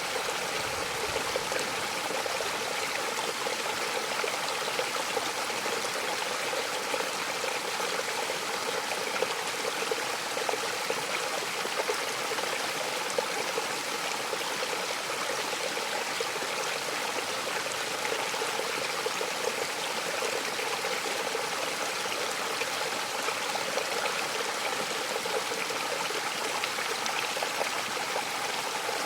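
Mountain waterfall, water falling and splashing in a steady, even rush, bright and hissy with little deep rumble.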